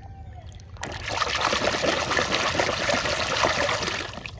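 Water running and splashing over a small plastic toy car as it is rinsed clean of mud, starting suddenly about a second in and easing off near the end.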